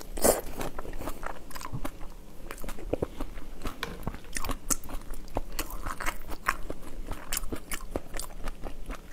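Close-miked eating of raw chili-marinated shrimp: irregular wet crunches, bites and chewing, with clicks of the shells being handled and pulled apart.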